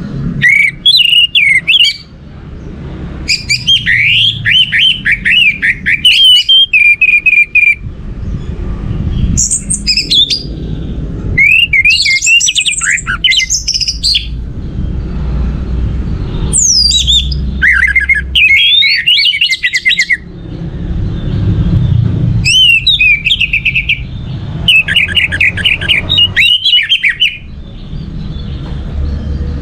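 Orange-headed thrush singing: about seven bursts of fast, varied, high-pitched warbling phrases separated by short pauses, over a steady low rumble.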